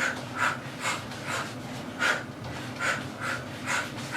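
A person breathing out in short, sharp puffs, about two a second, while throwing punches and knee strikes in a kickboxing combination.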